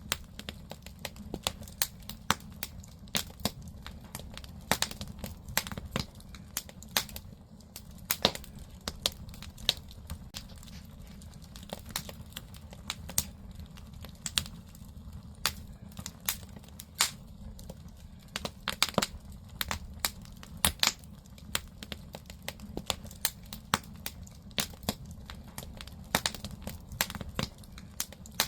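Firewood burning in a traditional Korean agungi (wood-fired firebox), crackling with frequent irregular sharp pops and snaps over a low, steady rumble.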